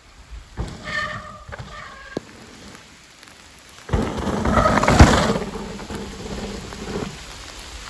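Heavy rain with wind rushing over the camera microphone, swelling loudly for about two seconds in the middle.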